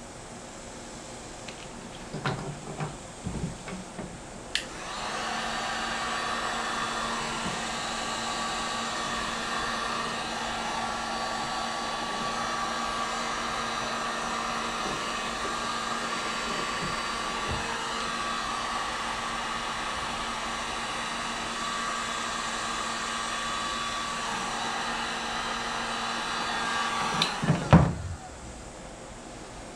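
Electric heat gun running steadily for about twenty-three seconds, switched on a few seconds in and off near the end, shrinking heat-shrink tubing over wiring connections. A few light handling knocks come before it starts.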